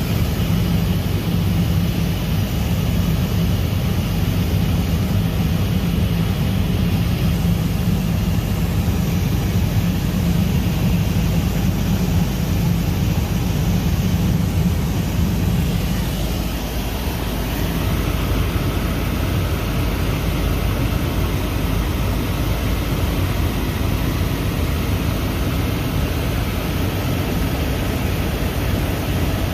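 Helicopter in flight: a steady drone of engine and rotor, strongest in the low end, easing briefly about halfway through.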